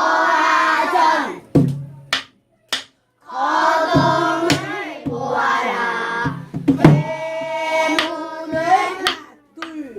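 Young children's voices singing pansori together, long held and gliding notes, broken by a short pause about two seconds in. A few sharp percussive strikes mark the beat.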